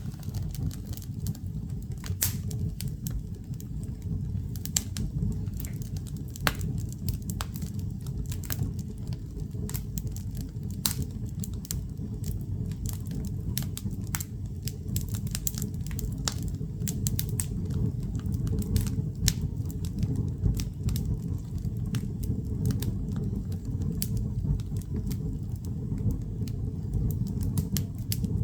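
Firewood burning in a fireplace: irregular sharp crackles and pops, several a second, over a steady low rumble.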